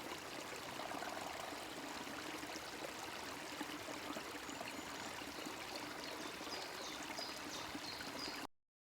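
Running water: a steady, even rush like a stream, cutting off suddenly near the end.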